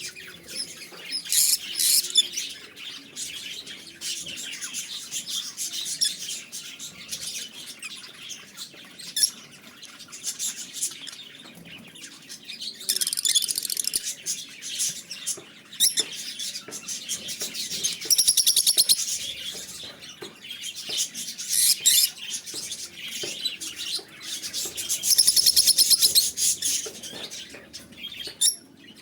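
Small pet parrots chirping and chattering without pause, with loud stretches of rapid, high-pitched chatter about halfway through, again a few seconds later, and near the end.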